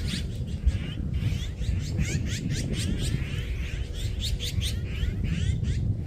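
A flock of small birds chirping all at once, many short overlapping calls with no pause, over a steady low rumble.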